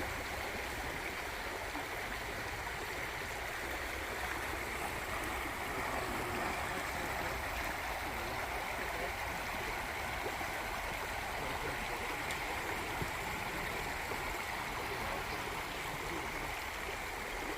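Creek water rushing steadily over a shallow, rocky stretch, with an even hiss and no breaks.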